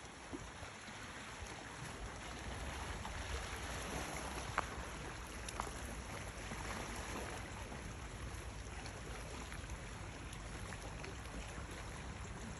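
Wind buffeting the microphone over a steady outdoor wash of sea noise, with a couple of sharp clicks about four and a half and five and a half seconds in.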